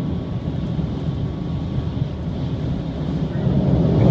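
Shiokaze limited express train running at speed over a steel truss bridge, heard from inside the carriage: a steady low rumble of wheels and running gear. The rumble grows louder a little over three seconds in, as something passes close outside the window.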